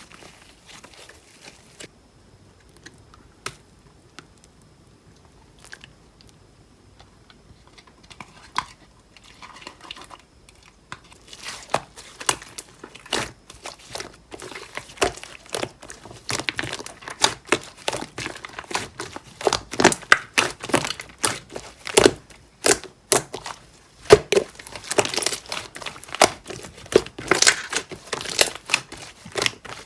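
Mint-coloured jelly-textured slime being pressed and squished by hand, giving irregular crackling and popping clicks. The clicks are sparse and faint at first and become dense and louder after about a third of the way in.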